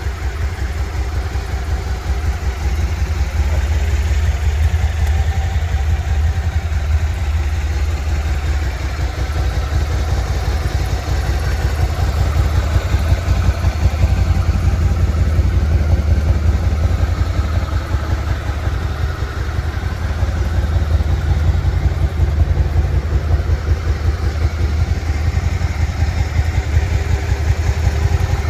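2017 Suzuki SV650's 645 cc V-twin engine idling steadily, a low, even pulsing rumble.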